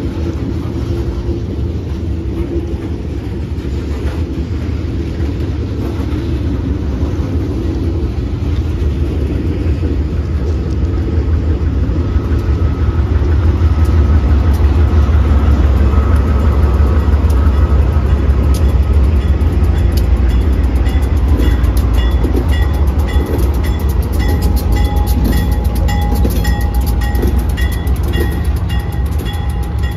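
Freight train rolling past: covered hopper cars, then two GE B40-8 diesel locomotives with their 16-cylinder engines running, the engine rumble loudest about halfway through. A bell rings in a steady repeating beat over roughly the last ten seconds.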